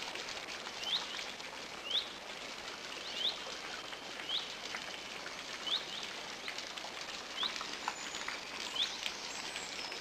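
Outdoor ambience with a bird repeating a short rising chirp about once a second over a steady hiss.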